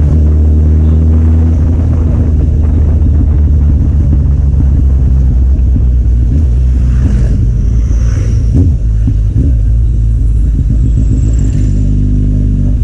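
Kawasaki Z800's inline-four engine idling steadily through an aftermarket Akrapovic exhaust, a loud, even low note.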